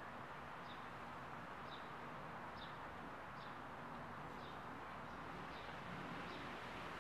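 A small bird chirping, one short high chirp repeated evenly a little more than once a second, over a faint steady hiss.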